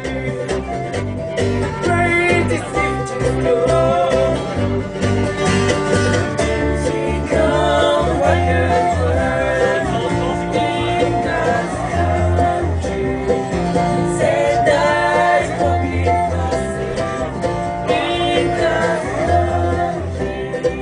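Acoustic bluegrass band playing a song, banjo and guitar picking under a sung melody.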